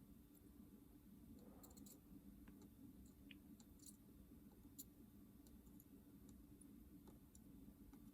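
Near silence: a faint steady low hum with a few scattered small ticks and clicks.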